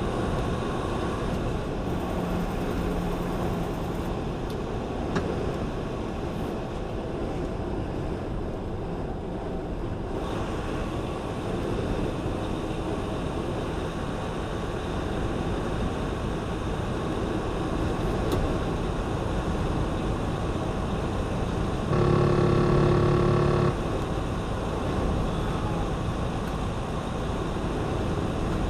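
Steady road and engine noise heard inside a moving truck's cab. About 22 seconds in, a loud steady tone made of several pitches sounds for under two seconds, then stops.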